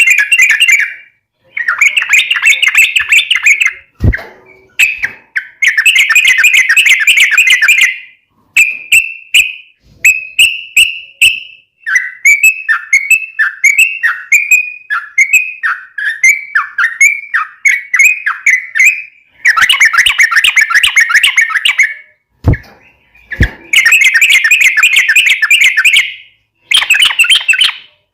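Yellow-vented bulbul song: bouts of rapid bubbling chatter, each a second or two long with short pauses between, and in the middle a run of separate downslurred notes at about one and a half a second. A few faint knocks now and then.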